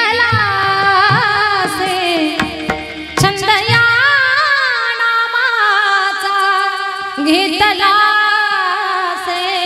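Devotional kirtan singing: a voice draws out a long, wavering melismatic line of the abhang over sustained instrumental accompaniment, with occasional drum strokes.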